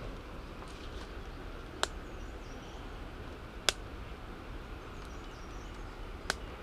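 Campfire crackling, with three sharp pops a couple of seconds apart over a steady rushing background.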